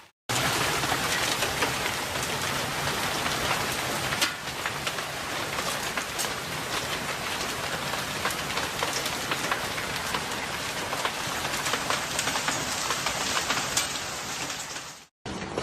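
Hailstorm: hail and heavy rain pelting hard surfaces in a dense, steady clatter, with many sharp individual stone impacts standing out.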